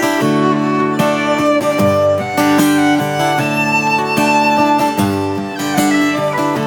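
Fiddle playing an instrumental break, long wavering melody notes over strummed acoustic guitar chords, in the key of D.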